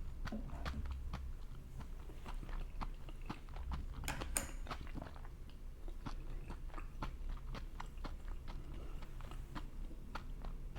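Close-miked chewing and biting of food, a steady run of small wet clicks, with a sharper, crisper bite about four seconds in.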